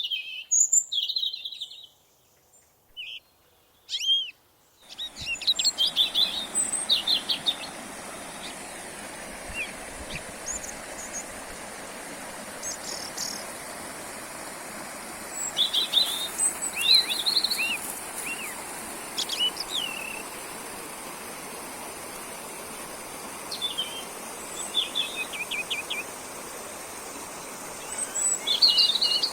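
Songbirds singing in short, high phrases, some in quick trills and others in chirps. About five seconds in, the steady babble of a small forest stream comes in under them.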